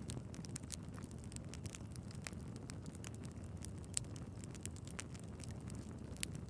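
Log fire crackling: a steady low rumble of burning with many small sharp pops scattered through, and two louder pops, one about four seconds in and one near the end.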